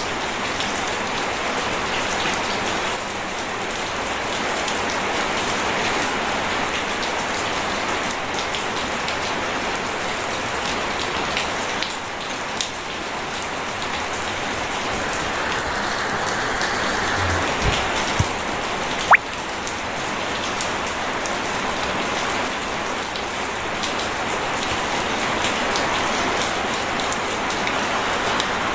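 Steady, dense rain falling and pattering on surfaces, with no thunder heard. A sharp click stands out about two-thirds of the way through.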